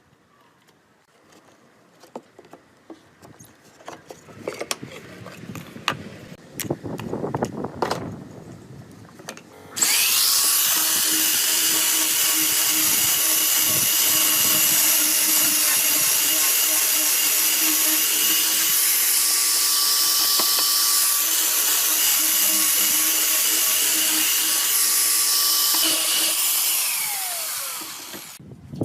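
Scattered knocks and clicks of wood being handled, then about ten seconds in an electric power tool starts abruptly. It runs steadily with a high whine for about sixteen seconds, then winds down with a falling pitch near the end.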